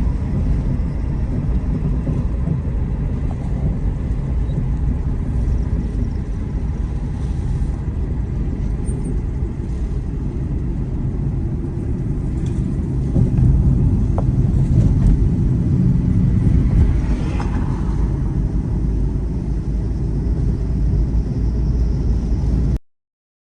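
Steady low rumble of a vehicle on the move, swelling a little past the middle, then cutting off abruptly near the end.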